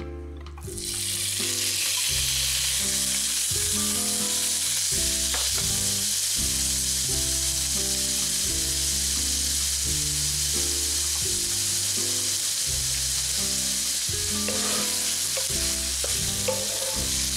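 Diced raw pork sizzling in hot oil in a nonstick frying pan, a steady hiss that starts about a second in as the meat hits the pan. Near the end a wooden spatula stirs the pieces. Soft background music plays underneath.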